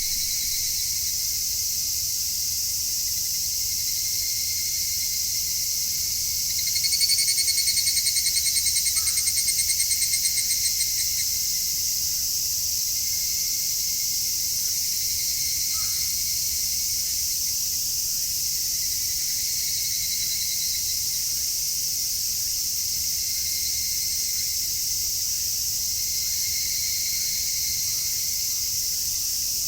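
Higurashi (evening cicada) calling: one loud, rapidly pulsed trilling call comes in about seven seconds in and lasts about four seconds, with fainter calls later. Under it runs a steady high-pitched insect chorus.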